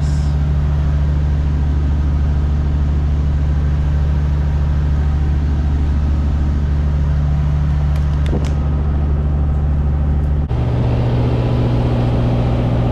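Semi-truck diesel engine droning steadily while driving, heard from inside the cab. About ten seconds in, the drone switches abruptly to a different steady pitch.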